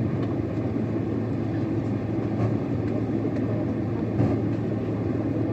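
Steady low rumble of an airliner's cabin in flight, engine and airflow noise with a constant hum underneath, and a couple of faint small knocks about halfway through.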